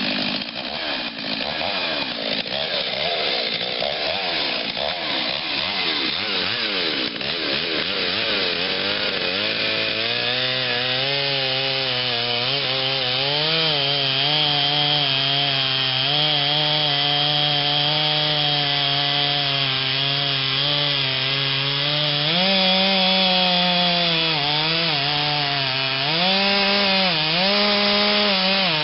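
Modified Stihl 039 two-stroke chainsaw with an opened-up muffler and 28-inch bar, running at full throttle and cutting into a big oak trunk. The engine note wavers for the first several seconds, then holds steady under load from about ten seconds in, with brief rises and dips in pitch near the end as the load on the chain changes.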